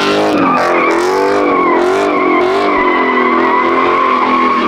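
V8 muscle car spinning its rear tyres on the tarmac, with a loud, steady, high tyre squeal. The engine is held at high revs underneath, its pitch wavering up and down as the throttle is worked.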